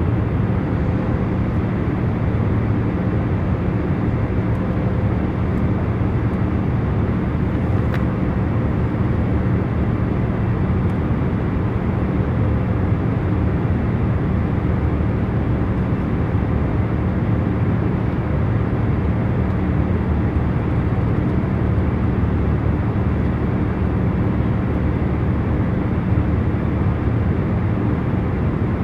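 Steady low hum and rush of a jet airliner's cabin in cruise flight: engine and airflow noise with a faint constant drone. A faint click about eight seconds in.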